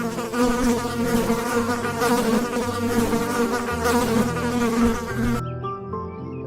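A flying insect buzzing steadily, stopping sharply about five seconds in, over soft background music.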